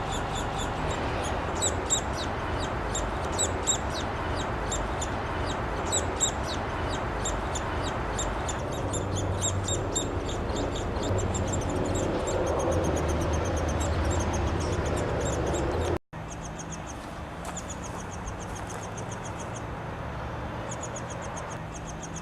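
Downy woodpecker nestlings calling from the nest cavity: a steady stream of short, high begging calls, several a second, over a steady background hiss. The sound cuts out briefly about two-thirds through.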